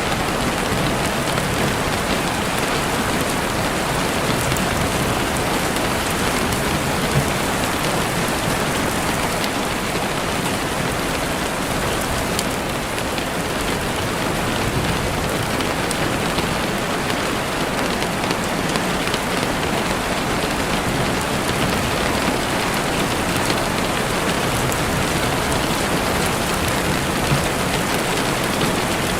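Steady rain falling on leaves and ground, dense and even, with a campfire crackling in small scattered pops.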